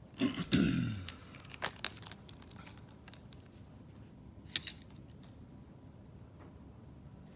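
Segments of a toy stick being handled: a short clatter lasting about a second at the start, then a few light clicks and taps, twice close together, as the joined segments knock against each other.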